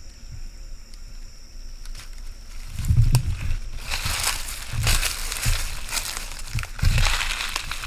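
Irregular rustling and crunching in dry leaves and brush, with low thuds, starting about three seconds in after a quieter stretch.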